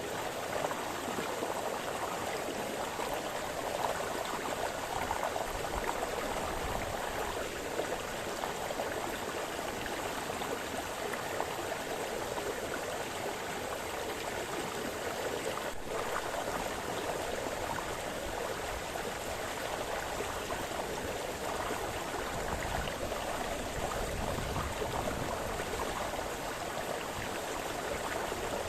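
Small brook splashing and burbling over stones: a steady, even rush of running water.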